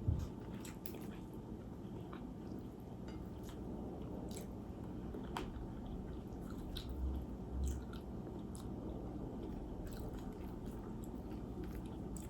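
A person chewing and biting food close to the microphone, with scattered small wet mouth clicks. Two soft low thumps come about seven seconds in.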